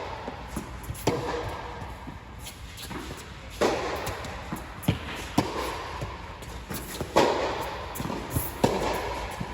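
Tennis rally: sharp pops of balls struck by racquets every few seconds, with lighter knocks between them.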